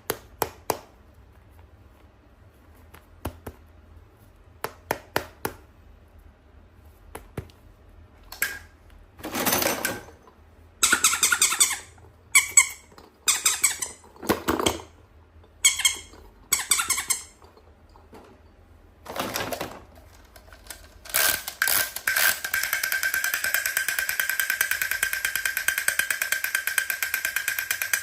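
Close-up unboxing handling sounds: scattered small clicks and taps, then a run of short bursts of rustling and crinkling packaging. About 22 seconds in, a steady rapid buzzing rattle with a held tone starts and continues.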